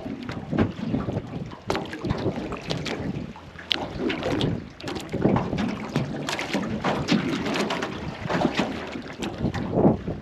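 Small aluminium tinny under way, with uneven slaps and knocks against the hull and wind buffeting the microphone.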